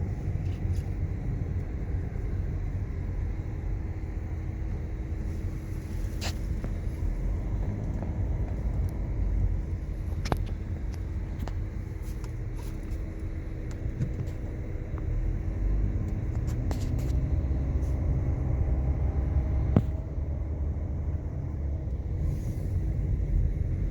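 Car driving at steady speed: a continuous low road-and-engine rumble, with a steady hum joining a few seconds in and a few short clicks.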